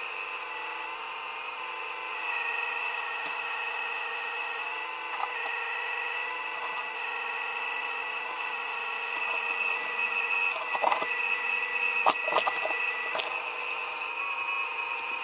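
Heavy digging machine running steadily with a constant high whine, with a few sharp clanks about two-thirds of the way through.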